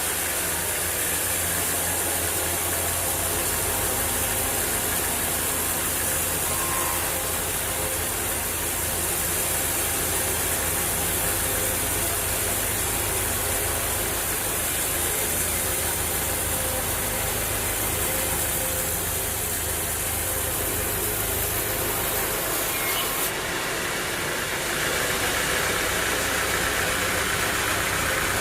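Sawmill engine running steadily, with a high hiss over it that cuts off near the end.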